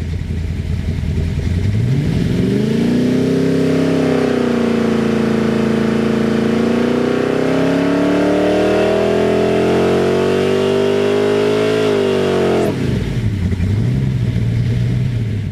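Ford 289 small-block V8 on an engine dynamometer: it comes up from idle, then pulls under load with the revs climbing slowly for about ten seconds. Near the end the throttle closes and it drops sharply back toward idle.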